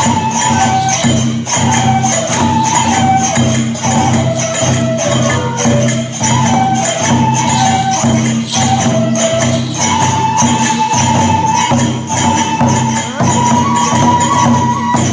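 Traditional kagura music: a stepping wind-instrument melody over steady drum beats and jingling metal percussion.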